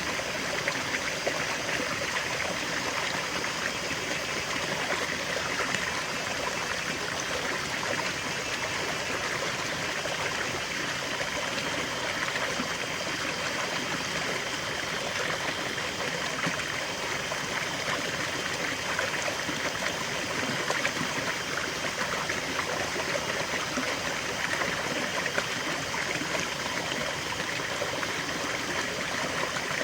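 River water flowing steadily over stones, a continuous rushing with trickling and gurgling.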